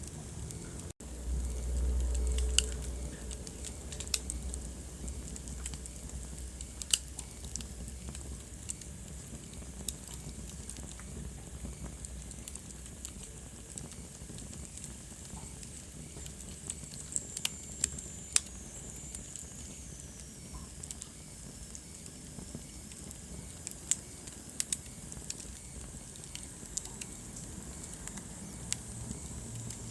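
Wood fire in a fireplace crackling, with irregular sharp pops and snaps over a steady hiss. A low rumble swells for a couple of seconds about a second in, and a faint high whistle slowly falls in pitch around the middle.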